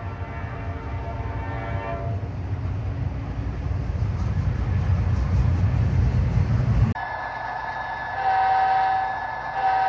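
A diesel freight locomotive's air horn sounds a chord that stops about two seconds in. Then the low rumble of several Norfolk Southern diesel locomotives passing close grows steadily louder. After an abrupt cut, a model train's horn sounds twice near the end over a steady high tone.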